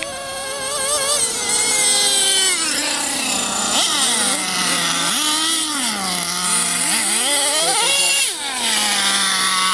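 Small two-stroke nitro engine of a radio-controlled stadium truck revving up and down as the throttle is worked, its high whine rising and falling over and over, then settling to a steady note near the end.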